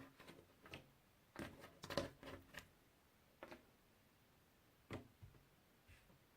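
Puzzle pieces handled and set down: faint, light clicks and taps, a quick cluster of them about two seconds in and single ones about three and a half and five seconds in.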